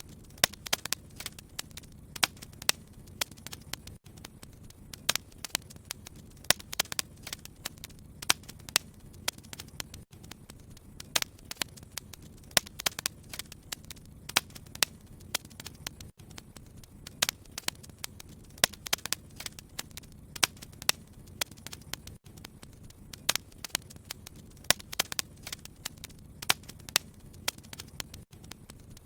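Wood fire burning in a fireplace: irregular sharp crackles and pops, several a second at times, over a low steady rumble of flame.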